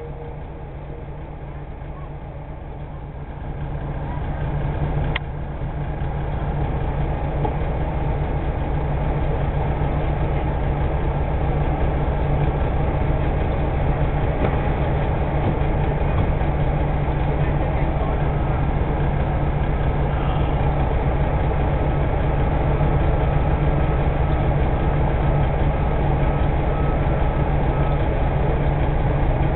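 Sicard snowblower's Cummins 335 diesel engine running steadily. It grows louder over the first several seconds, then holds at an even level.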